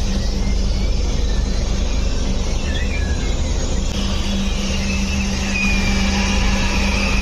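Steady low engine drone with a constant hum, a few faint high squeaks coming and going over it.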